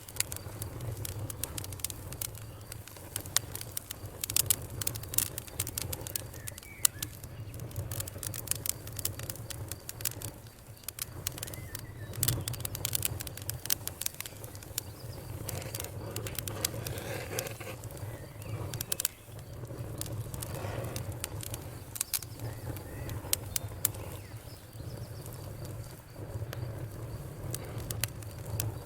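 Wood fire in a fireplace crackling: irregular sharp pops and snaps, sometimes in quick clusters, over a steady low hum.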